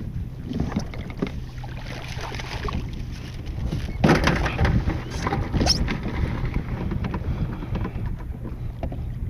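Wind buffeting the microphone with water splashing and dripping around the kayak as a crabbing trotline is run. The splashing is loudest for a couple of seconds starting about four seconds in.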